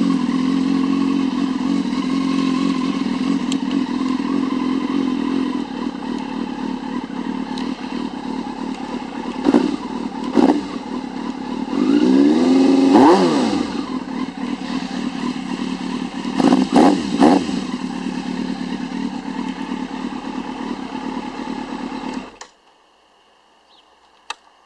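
1999 Yamaha FZS600 Fazer's inline-four engine with a Carbon Force aftermarket silencer, idling steadily. It gets a few short throttle blips, one longer rev that rises and falls, and a quick run of blips. Near the end it is switched off and cuts out abruptly, followed by a single click.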